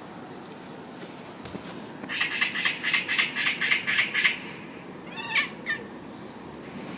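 Scottish Fold cat chattering at birds: a fast run of about ten short, clicky pulses lasting a couple of seconds, then a short pitched chirp about a second later. Chattering like this is a cat's excited response to prey it can see but not reach.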